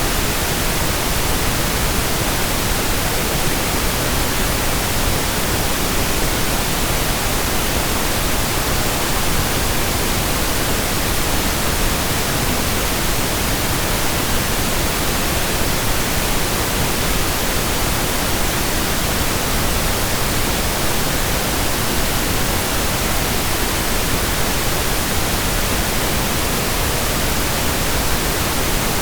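Steady synthesized pink noise: an even, unchanging hiss across all frequencies, with no events or changes.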